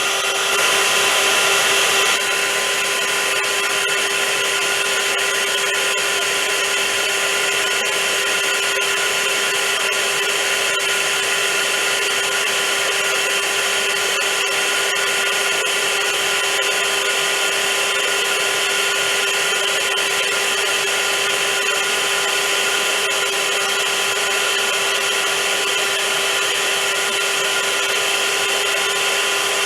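Vacuum cleaner motor running continuously: a loud, steady rushing of air with a constant motor hum and whine. A little louder for about the first two seconds, then even.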